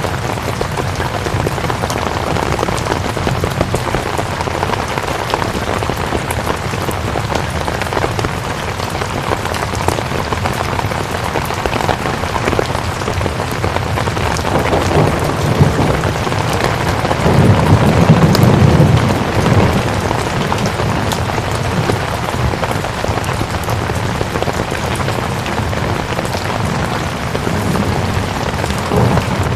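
Steady rain falling, an even hiss of many drops. For about three seconds past the middle a low rumble swells up and makes it louder.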